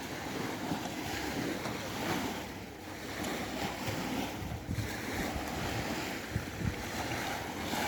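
Sea waves with wind gusting against the microphone, a steady wash of noise with uneven low rumbles.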